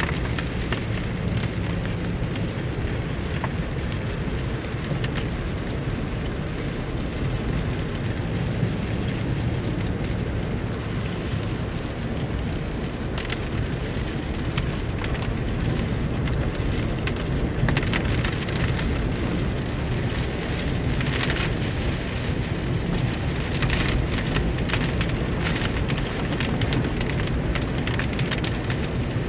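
Steady rain with the low hum of a vehicle driving underneath. From about halfway through, scattered clusters of sharp ticks come and go, as of drops striking a hard surface.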